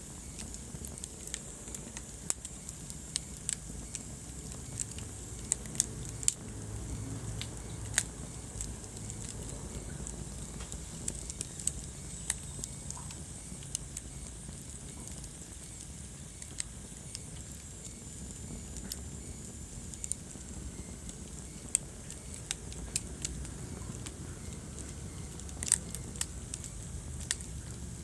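Wood fire burning in a fireplace: a low, steady rumble of flames with irregular sharp crackles and pops, a few of them louder, and a faint high thin whistle for several seconds midway.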